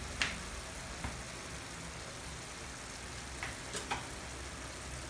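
Igado frying gently in a pan, a steady low sizzle of a dish that is nearly cooked, with a few faint clicks, three of them close together about two-thirds of the way through.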